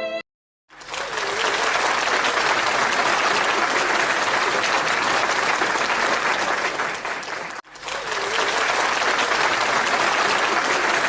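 Crowd applauding: dense, steady clapping that starts just under a second in, breaks off for an instant about seven and a half seconds in, then carries on.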